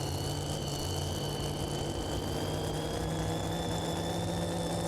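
Super modified two-wheel-drive pulling truck's engine running steadily at idle, with a steady high-pitched whine over it.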